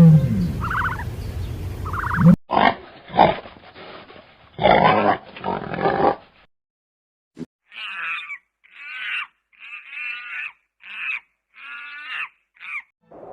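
Animal calls from spliced recordings: first a low grunting sequence of loud bursts, then after a short pause a run of six short harsh calls about a second apart.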